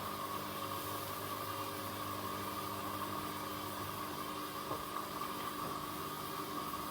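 Blomberg LWF194520QW and Hoover H3W04105TARR4-80 washing machines running mid-cycle: a steady motor hum with a constant whine over a wash of noise. A faint click comes a little past halfway.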